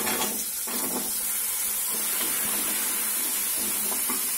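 Whole shallots and dried red chillies frying in hot sesame oil in a kadai: a steady sizzling hiss as they are tipped into the oil and stirred.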